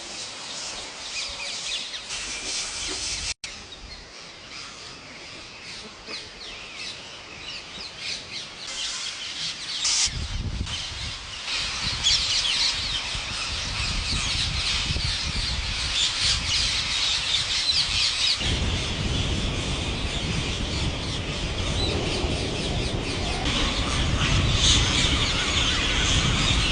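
A large flock of parrots squawking and chattering, many overlapping shrill calls at once, growing louder after about ten seconds. A low rumble runs underneath in the second half.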